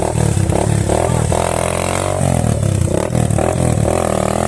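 Small off-road motorcycle engine revving hard and close by, its pitch rising and falling again and again as the throttle is worked.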